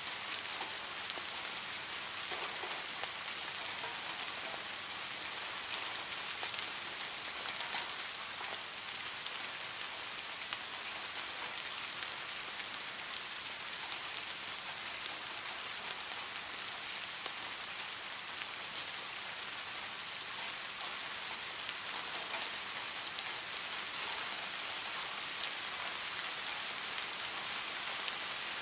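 Steady rain falling, a dense even hiss of many small drop impacts on a surface.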